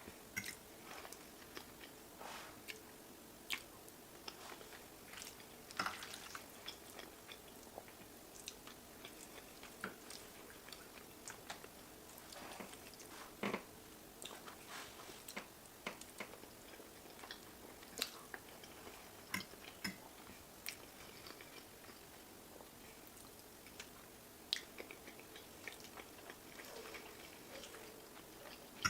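A person chewing food close to the microphone, with scattered short, sharp mouth clicks and smacks between quieter chewing.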